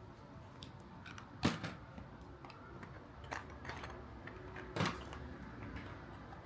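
Two sharp knocks a few seconds apart and a few lighter clicks, as objects are handled and set down, over a low steady room hum.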